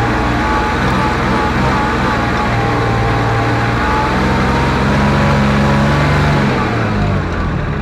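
Kubota RTV utility vehicle's engine running under load, with a high whine from the drivetrain above it; the engine note rises a little about halfway through, then drops near the end.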